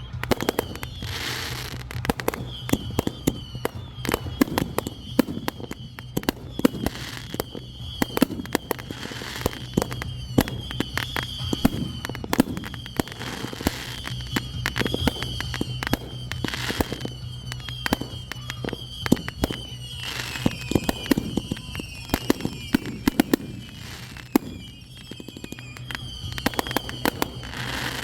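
Fireworks display: a dense run of sharp crackles and bangs, mixed with many short, high falling whistles.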